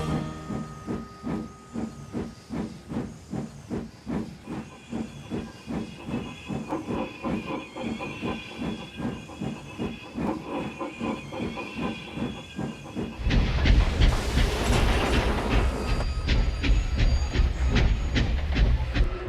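Steam locomotive chuffing steadily, about two beats a second, as it works up a hill. About thirteen seconds in, a loud hiss of escaping steam with a low rumble takes over: the sign of the engine breaking down, its valve gear broken.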